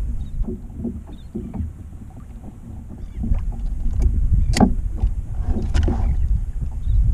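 Water sloshing against a kayak's hull with wind buffeting the microphone, and a sharp knock on the boat about four and a half seconds in.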